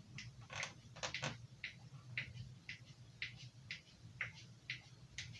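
Knife blade stroked back and forth on a leather strop, short quiet swipes about twice a second, over a steady low hum.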